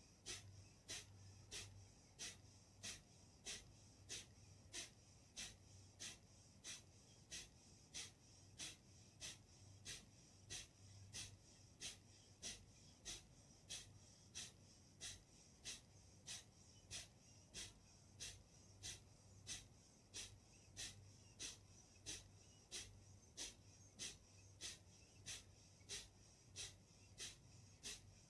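Kapalbhati breathing: short, forceful exhalations through the nose at a steady rhythm of about three every two seconds. A faint low hum runs underneath.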